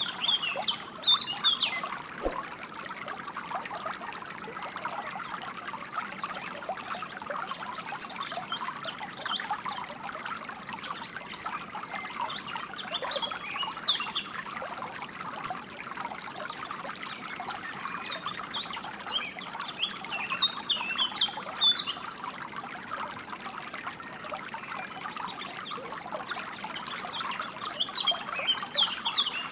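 Small stream trickling steadily, with songbirds chirping in short bursts of high notes over it, in several clusters.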